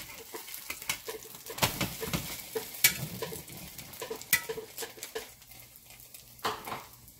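Stuffed paratha frying in freshly added oil on a flat tawa, with a light sizzle under raised heat. A metal spatula and spoon scrape and clack against the pan several times as the paratha is flipped and oiled.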